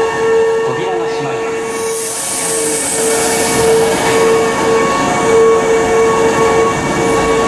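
Keihan 2200-series electric train pulling into an underground station, its running rumble filling the platform with a burst of airy hiss about two seconds in. A steady tone pulses on and off throughout, and further steady tones join about four seconds in as the train draws alongside.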